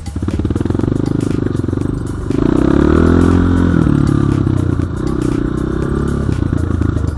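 BSE J1 enduro motorcycle engine revving under throttle, its pitch rising and falling; it gets louder about two seconds in as the throttle opens.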